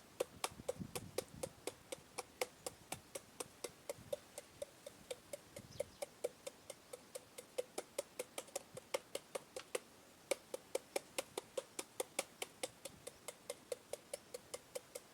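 Pestle pounding green papaya salad in a mortar: quick, even knocks at about four a second, each with a short hollow ring, with a brief break about four seconds in.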